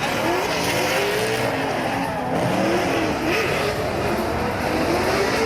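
Drift cars on track, engines revving up and down in pitch over the continuous hiss and squeal of sliding tyres.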